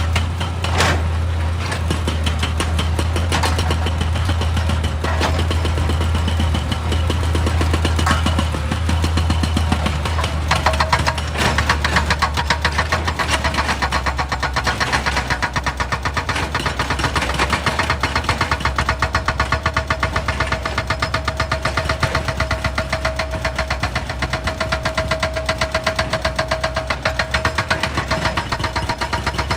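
Excavator's diesel engine running under load, with scattered knocks at first and then a fast, even clatter of knocks from about a third of the way in. A steady whine joins in the second half.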